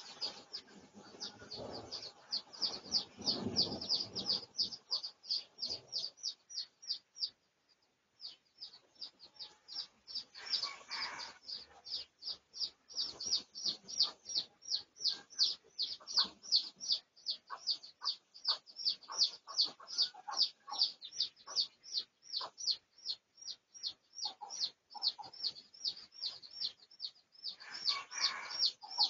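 High, thin bird chirps, each a short downward note, repeated steadily about three times a second, with a few lower, fuller calls from fowl about ten seconds in and near the end.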